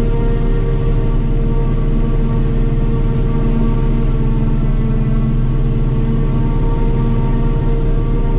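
Self-propelled forage harvester running steadily while chopping corn: a constant deep drone with a steady whine on top.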